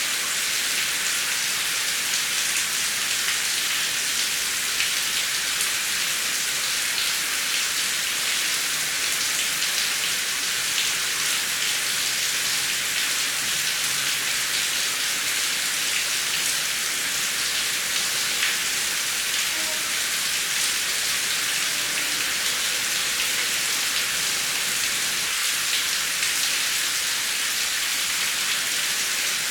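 Heavy rain falling steadily: an even hiss with a fine patter of drops.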